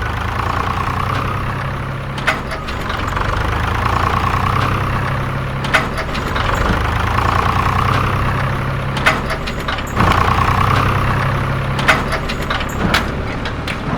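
Steady engine-like idling hum with a low drone and a warbling mid tone that swells every few seconds, broken by several sharp clicks.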